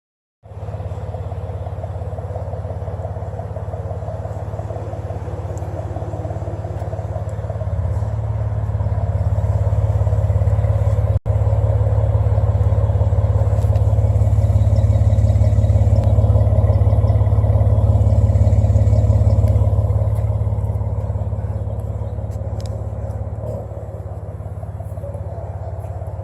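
Exhaust of a warmed-up 2010 Acura TL V6 idling at the tailpipe: a steady, loud low rumble that grows louder from about eight seconds in, holds for about twelve seconds, then settles back down.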